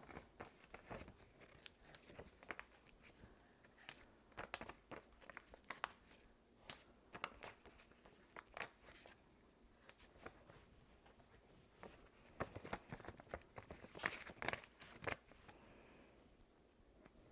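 Faint, scattered crinkles and small sharp clicks of paper and plastic being handled: Stampin' Dimensionals foam adhesive squares being picked from their sheet and pressed onto a cardstock layer.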